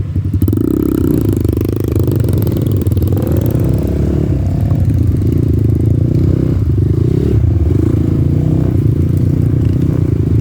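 Off-road motorcycle engine running under varying throttle, its pitch rising and falling a few times, with some clatter from the bike.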